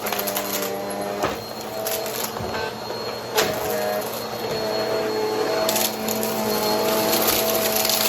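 Vacuum cleaner running with its brushroll, a steady motor hum whose pitch shifts now and then, with scattered clicks and crackles as debris is sucked up.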